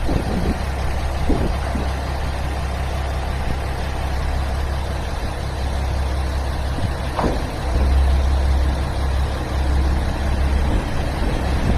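Diesel engine of the SAKU美SAKU楽 tourist railcar idling, a steady low rumble that grows a little louder about two-thirds of the way in. A single short sharp sound comes just after the middle.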